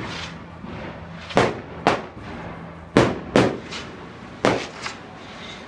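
Aerial fireworks going off: a series of sharp bangs, most in pairs about half a second apart, with faint crackling between them.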